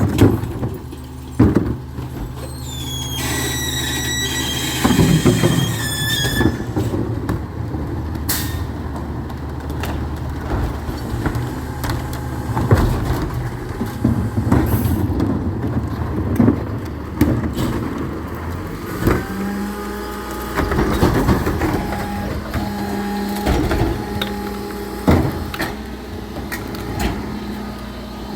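Recycling truck's diesel engine running, with high whines that rise and fall in pitch and repeated clunks and knocks while it works. The engine note steps up about two-thirds of the way in.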